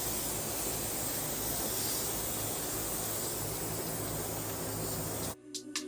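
Steady, even hiss of rushing air in a paint spray booth, cut off abruptly about five seconds in, when music begins.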